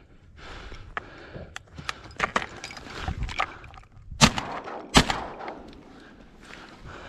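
Two shotgun shots about three-quarters of a second apart, preceded by a scatter of small clicks and knocks, over a steady hiss of wind.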